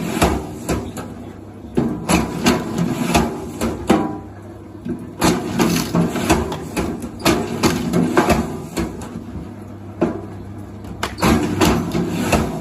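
Groups of sharp knocks and clacks, several in quick succession, over a steady low hum.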